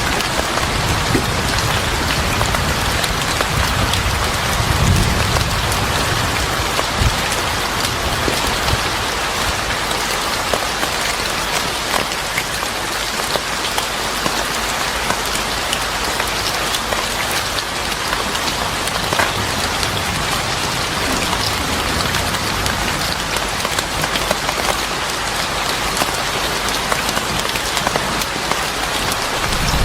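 Steady rain falling in a dense, even patter, with a low rumble that swells and fades over roughly the first eight seconds.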